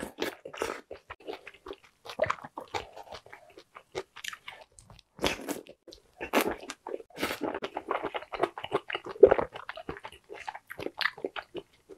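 Close-miked chewing and biting of soft food from a spicy jeon stew with dumplings, taken in by the spoonful with broth: an uneven run of crackly mouth noises.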